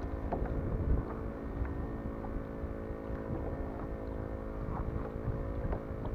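Wind buffeting the action camera's microphone in an uneven low rumble, over a steady hum of even, engine-like tones.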